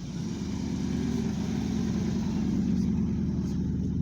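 Car engine running close by, its low drone growing louder over the first second, then holding steady.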